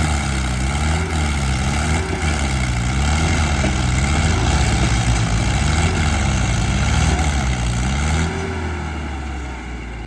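Diesel engine of a Mahindra Arjun tractor running under heavy load while pulling a fully loaded log trolley. The engine note wavers up and down in pitch about once a second and drops in level about eight seconds in.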